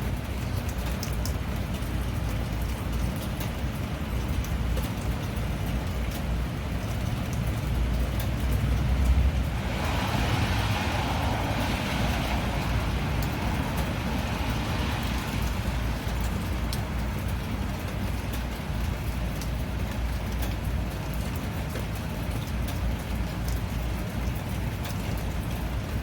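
Steady rain with a deep low rumble underneath and scattered sharp drop ticks. A louder hiss swells up about ten seconds in and fades out over some six seconds.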